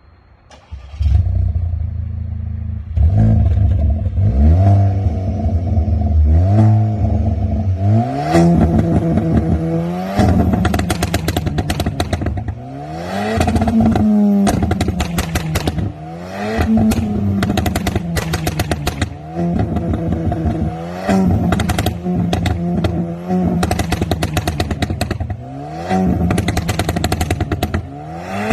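Volkswagen Polo 1.2 TSI's turbocharged four-cylinder engine, stage 2 ECU-mapped with a downpipe and full exhaust, starting about a second in and idling, then revved again and again, each rev rising and falling back. From about eight seconds in, every lift-off brings a string of crackles and pops from the exhaust, the pops-and-bangs of the tune.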